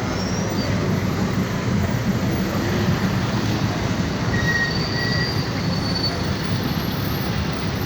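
Steady rumble and rattle of a lorry on the move, heard from its open cargo bed, with a few faint high squeaks.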